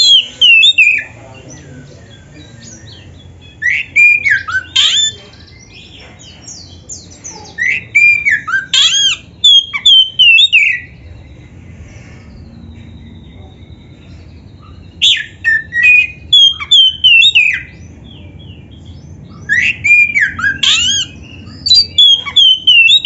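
Oriental magpie-robin (kacer) singing loudly in bursts of quick whistled and sliding notes. Each burst lasts one to three seconds and is followed by a short pause.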